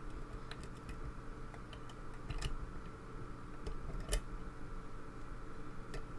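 Lock pick working the pins inside a pin tumbler lock during single-pin picking: small scattered clicks and scrapes, with a louder click a little past 2 s and another just after 4 s.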